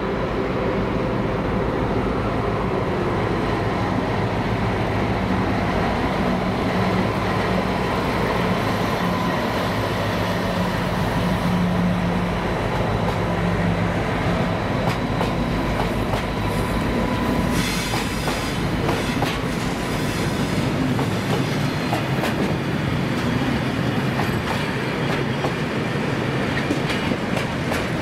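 Class 60 diesel locomotive's eight-cylinder Mirrlees engine working as it hauls a train of oil tank wagons past, followed by the tank wagons rolling by with a steady clickety-clack of wheels over the rail joints. The wheel noise turns brighter and sharper about two-thirds of the way through as the wagons pass close.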